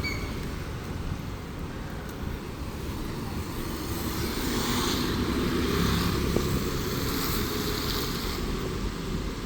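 Street traffic: vehicles passing with a steady rumble of engines and tyre noise, swelling a little as vehicles go by.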